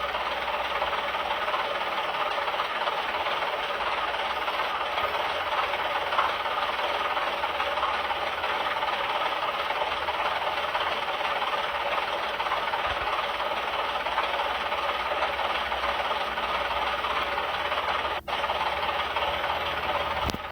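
Heavy vehicle engine running steadily, a rough, even mechanical noise without a clear rhythm; it cuts out for an instant near the end.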